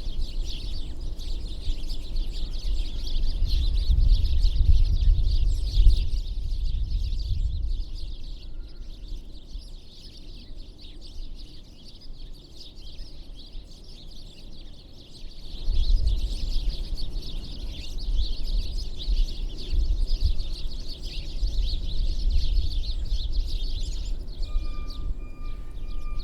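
Many small birds at winter feeders chirping and chattering together in a dense, continuous chorus, over a low rumble that swells twice. Near the end a steady tone begins.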